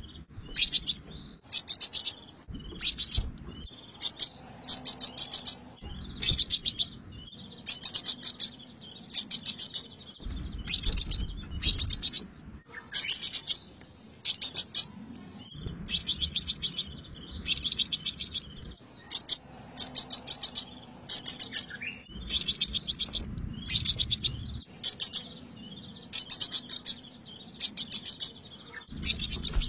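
Sunbird song: short, rapid trills of high, thin chirps, repeated in bursts about once a second. Some bursts have a faint low rumble underneath.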